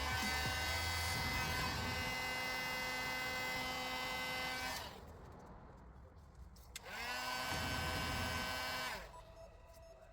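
Small electric motor of a handheld power tool whining steadily, switched off about five seconds in, then spinning back up with a rising whine and running about two seconds more before stopping.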